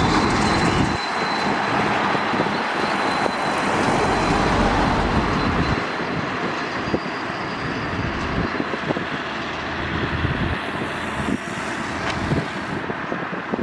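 Heavy trucks and other traffic passing on a highway: a dense rush of tyre and engine noise, loudest in the first half and easing in the second, with a thin high whine over the first half.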